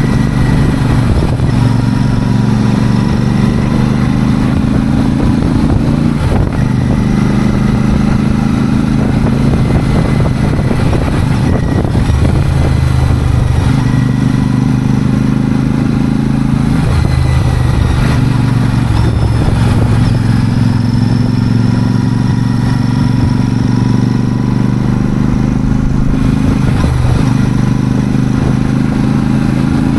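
Royal Enfield Super Meteor 650's parallel-twin engine running steadily, its exhaust note stepping up and down in pitch every few seconds.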